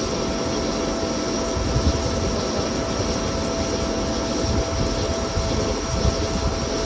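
CNC lathe running: a steady whine over an uneven low rumble.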